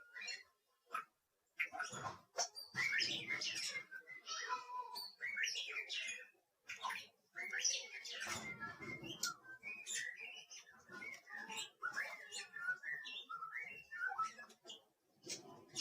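Small pet bird chirping and twittering in quick, irregular short calls, with a couple of lower, noisier stretches in between.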